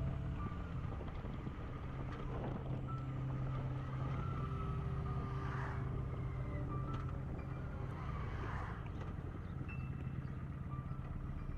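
Kawasaki Vulcan motorcycle engine running at a steady pitch while riding along, with no gear changes or revving.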